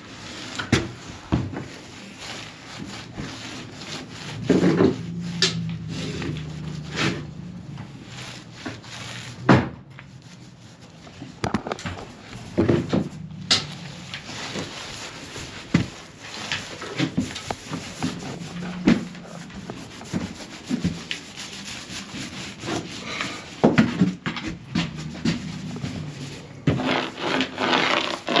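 Paint being spread across a trailer floor: irregular rough rubbing and scraping strokes over the gritty, sand-textured coat, with scattered sharp knocks.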